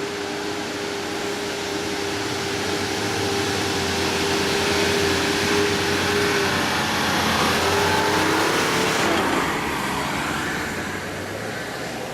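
Off-road 4x4 vehicle working hard through an obstacle, with a steady high whine that wavers and breaks up about seven seconds in. Loud mechanical noise swells in the middle and eases off near the end.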